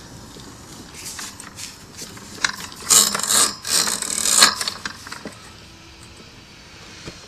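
A run of irregular rustling and clicking, loudest about three and four and a half seconds in, then dying down.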